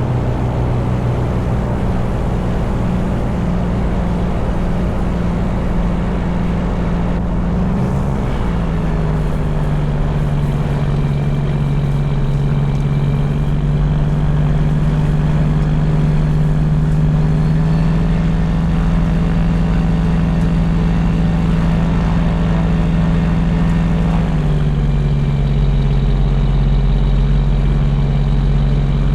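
Vehicle engine running steadily on the move. Its note drops about eight seconds in and again near the end.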